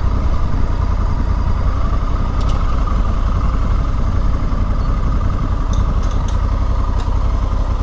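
Honda Africa Twin motorcycle engine running steadily, a low, even rumble.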